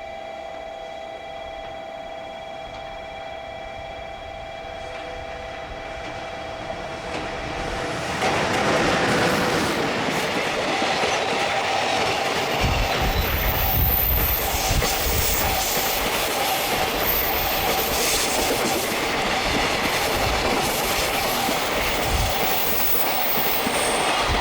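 A JR Freight EH500 electric locomotive and its long freight train passing through a station. Steady humming tones come first as it approaches, then about eight seconds in the sound jumps louder as the train arrives, with wheels clacking over the rail joints as the wagons run by.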